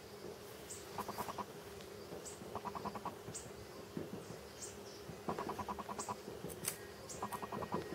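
Birds calling: four short, rapid trills of evenly spaced notes a few seconds apart, with thin high chirps about once a second in between.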